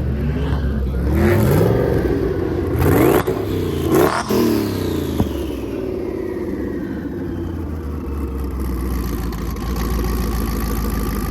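Car engines revving hard, their pitch climbing and falling several times, loudest about three and four seconds in, then settling into a steadier run.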